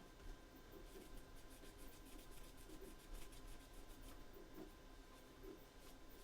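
Near silence with faint, scattered rubbing and scratching: a cloth wiping excess acrylic paint off a painted wooden laser-cut piece. A faint steady hum sits underneath.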